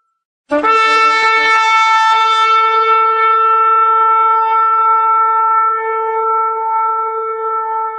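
A shofar blown in one long blast: it starts sharply about half a second in, breaks briefly a few times in the first second or so, then settles into a single steady note held to the end.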